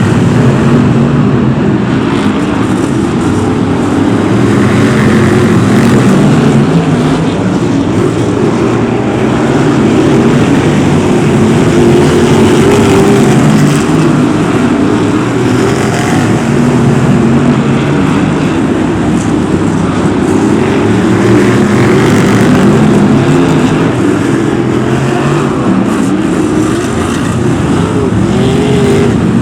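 Several BriSCA F1 stock cars' V8 engines running hard together in a race, a dense, loud engine din whose pitch keeps rising and falling as the cars accelerate and lift off.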